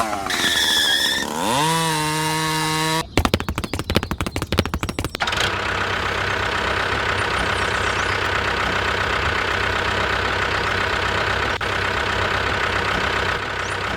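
Pitched tones for the first few seconds, then a rapid clatter about three seconds in, followed by a small engine running steadily.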